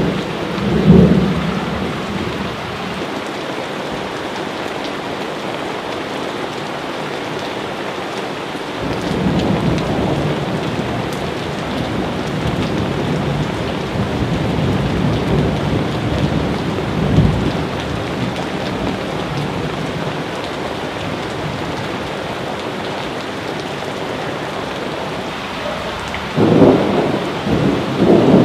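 Steady heavy rain with rolling thunder. The rumbles swell about a second in, through the middle with a peak a little past halfway, and again near the end.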